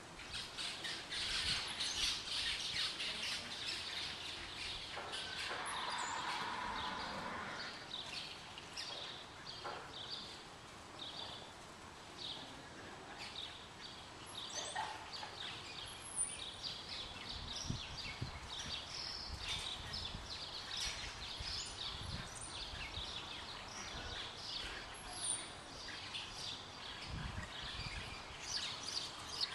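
Many small birds chirping continuously, several calling at once.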